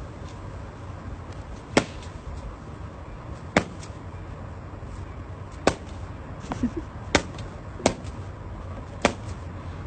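About six sharp knocks or taps at irregular intervals, a second or two apart, over a low steady hum.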